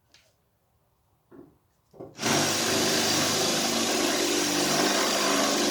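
A couple of faint taps, then about two seconds in an electric drill starts and runs steadily, boring out a spot weld in the car's sheet-steel body.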